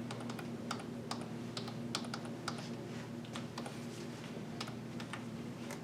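Computer keyboard keys pressed one at a time at an irregular pace, about two clicks a second, over a steady low hum.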